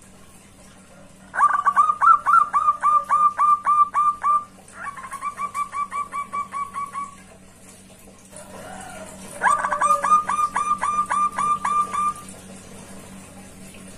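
Zebra dove (perkutut) cooing loudly in three quick runs of repeated notes, about four a second, the middle run fainter; the call is a challenge to a rival.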